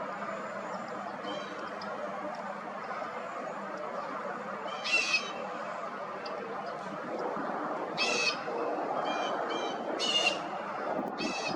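American wigeon calling: short nasal calls, faint at first, then louder ones about five, eight, ten and eleven seconds in, over a steady background rush.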